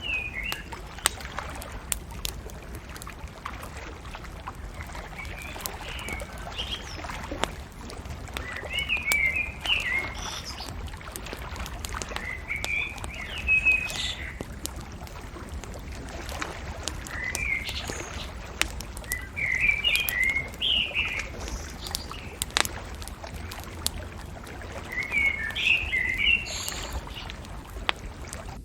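Small birds singing short chirpy phrases every few seconds over the scattered pops and crackles of a wood bonfire, with a steady low background noise underneath.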